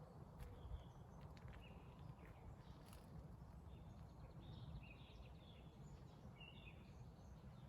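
Faint birdsong: several small birds chirping and trilling in short phrases, over a steady low background rumble.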